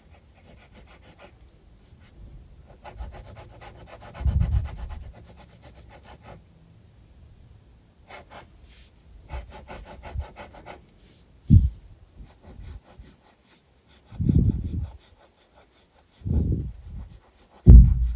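Graphite pencil scratching back and forth on sketchbook paper in runs of quick strokes, broken by short pauses. Several dull low bumps stand out louder than the strokes.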